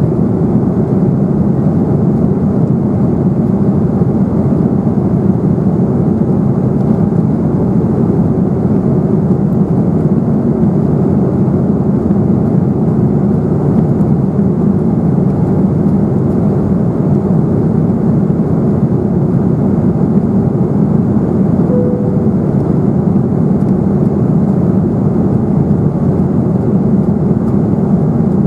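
Steady cabin drone of an Embraer 195 airliner in flight, a low, even roar from its twin turbofan engines and the air rushing past the fuselage, heard from inside the cabin.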